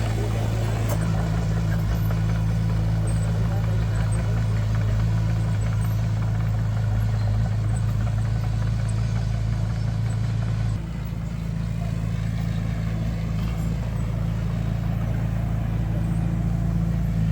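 Heavy construction machine's diesel engine running steadily, with its note dropping a little about eleven seconds in.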